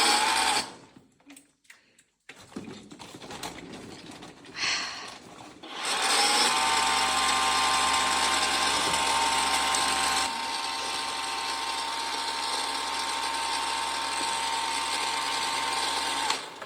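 Pressure washer starting up about six seconds in: its motor whine rises quickly, then runs steadily with the hiss of the spray. It drops off for a moment near the end and picks up again.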